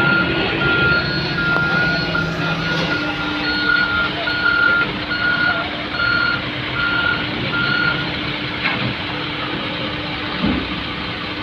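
A heavy truck's reversing alarm beeping at about two beeps a second, over the truck's engine running as it backs up. The beeping stops about eight seconds in and the engine keeps running.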